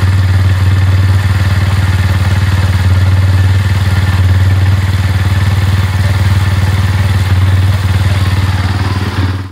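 Motorcycle engine running steadily in first gear, driving a new RK GP520 R-XW silver chain over new front and rear sprockets; the chain turns very quietly under the engine's steady hum. The sound cuts off suddenly at the end.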